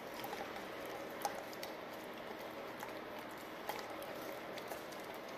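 Eggs cooking in a frying pan, topped with cheese and peanut butter, give a steady, quiet sizzle, with a few faint clicks.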